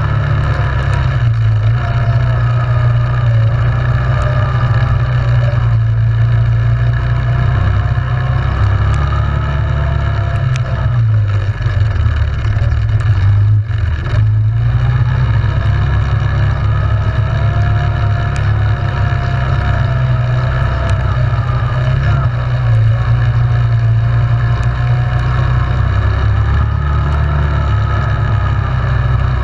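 ATV engine running under way, its pitch rising and falling with the throttle, with a brief let-off about halfway through.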